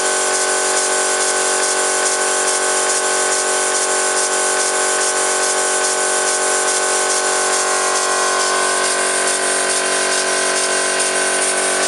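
Small homemade oscillating steam engine running steadily at speed, its exhaust hissing in beats too fast to pick apart, with a steady mechanical whine. About eight seconds in, part of the whine drops a little in pitch.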